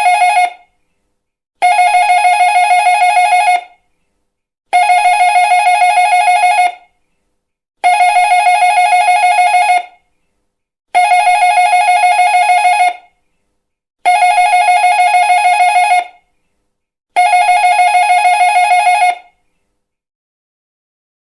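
Electric doorbell ringing in repeated rings of about two seconds, each with a fast, even rattle. The tail of one ring is followed by six more, starting about every three seconds, and the ringing stops near the end.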